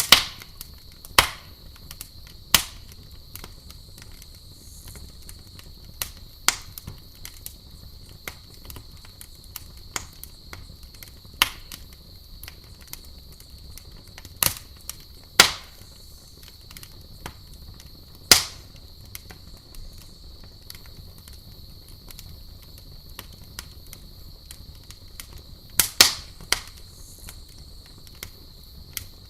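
Wood campfire crackling: sharp pops every few seconds at irregular intervals, a close pair near the end, over a low steady hiss, with a steady high-pitched tone running underneath.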